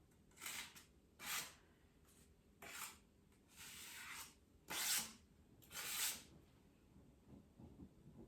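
A putty knife scraping as it spreads joint compound over a wall, six separate short hissing strokes, one a little longer in the middle.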